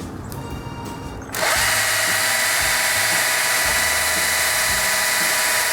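Chainsaw revving up suddenly about a second in, then running at a steady high pitch under full throttle while felling a tree.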